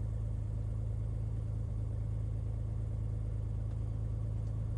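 Light aircraft's piston engine and propeller droning steadily in cruise, a constant low hum heard from inside the cockpit.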